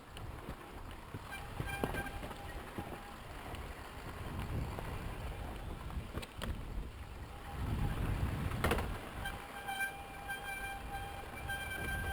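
Dirt bike brakes squealing on and off with a steady high pitch, briefly near the start and again from about two-thirds in, over the low rumble of the Yamaha YZ250FX rolling along the trail, with one sharp knock just before the second squeal. The squeak is one the rider means to stop with WD-40.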